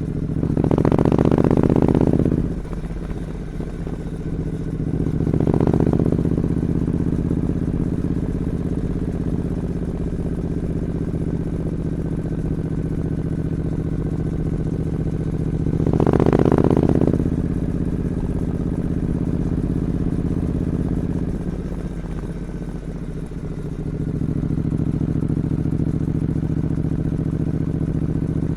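Triumph Scrambler 900 parallel-twin engine idling on its original 2-into-1 exhaust, blipped three times: a sharp rev about a second in, a smaller one around five seconds in and another around sixteen seconds in, each dropping straight back to idle.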